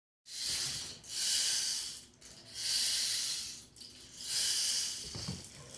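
Four hissing breaths blown out through a person's mouth, each about a second long with short pauses between.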